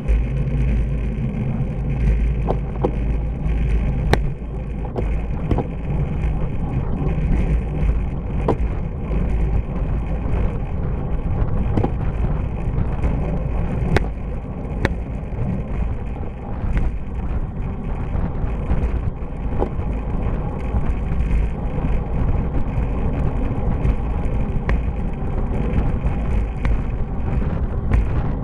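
Steady loud rumble of wind on the microphone and road noise from a bicycle drafting at speed behind a pickup truck, with scattered short sharp ticks.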